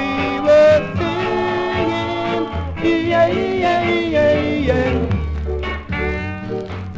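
Rocksteady record: a vocal group singing a wordless melody over the band's bass and rhythm. The voices drop out about five seconds in, leaving the band playing.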